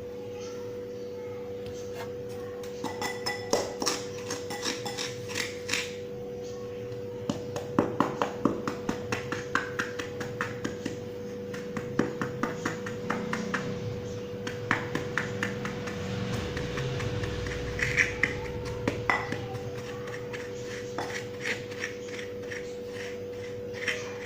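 Dry, crunchy mud-and-sand crumbles being crushed and broken apart, giving clusters of crisp crackling and snapping clicks over a steady background hum.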